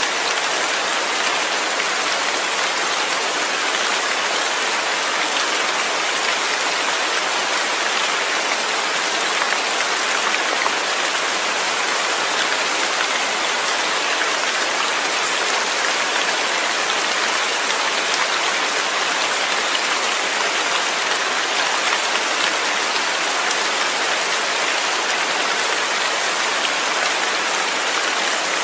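Steady rainfall, a dense, even patter of raindrops with no thunder.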